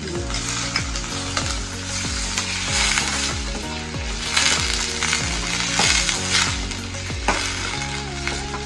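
Onions, chillies and freshly added chopped tomatoes sizzling in hot ghee in a steel pan while a spoon stirs them. Background music with a steady low beat plays underneath.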